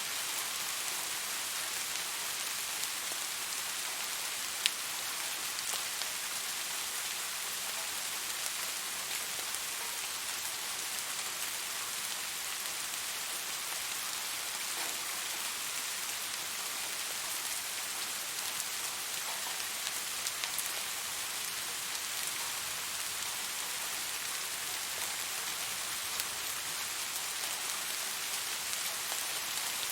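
Steady rain falling on a surface, an even hiss with scattered individual drop ticks, one louder drop about four and a half seconds in.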